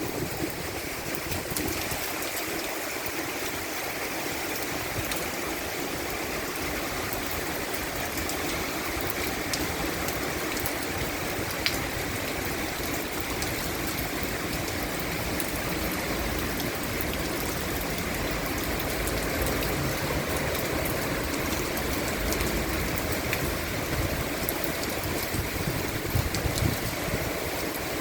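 Heavy rain falling steadily, with scattered sharper drop impacts.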